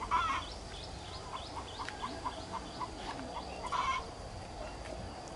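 A bird calling in short, evenly repeated notes, about three a second, with two louder, longer calls, one just after the start and one about four seconds in.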